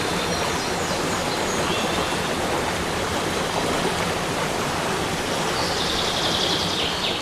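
Water of a rainforest cascade rushing steadily into a pool.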